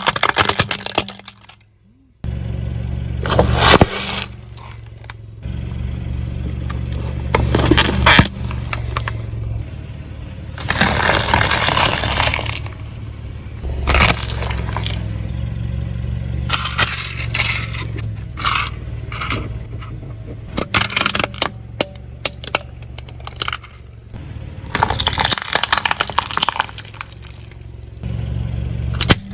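Car tyre rolling over brittle objects and crushing them: about half a dozen bursts of crunching and cracking, over the low steady run of the car's engine.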